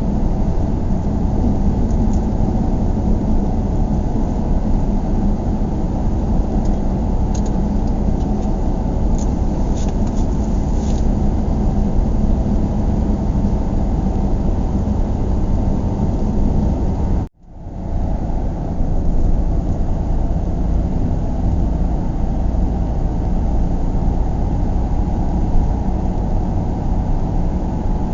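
Steady low rumble of a car driving, road and engine noise heard from inside the car. About seventeen seconds in, the sound cuts out for a moment and fades back in.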